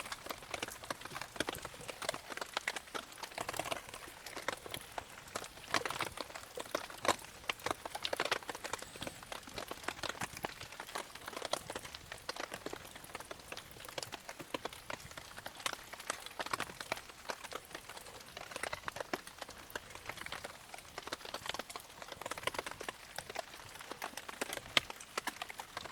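Wood campfire crackling, a dense, irregular run of small pops and snaps.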